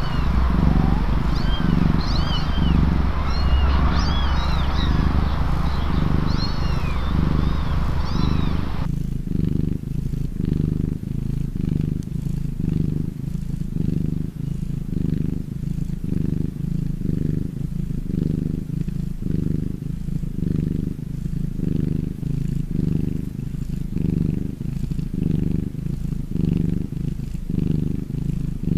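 Cat purring, a low rumble pulsing in a steady rhythm. For the first nine seconds or so, high chirps sound over it.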